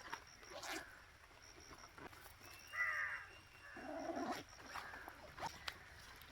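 An animal calling twice: a short, high pitched call about three seconds in, then a lower one about a second later, over a faint outdoor background with scattered small clicks.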